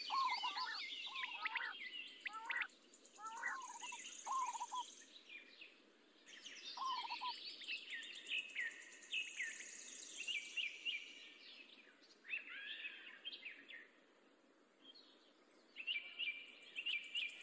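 Birds chirping: many short, overlapping calls repeating, with lower calls in the first five seconds.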